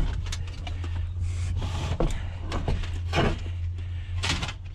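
Scrap pieces being shifted and knocked about while being fitted into a van's load space: scattered knocks, clunks and rubbing, with a steady low hum underneath.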